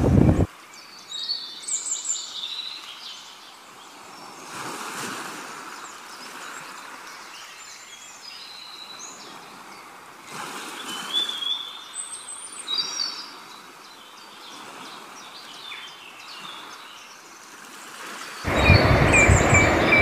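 Several birds chirping and calling over a soft, steady rustle of wind and water. A loud rush of wind and water is heard briefly at the very start and again from near the end.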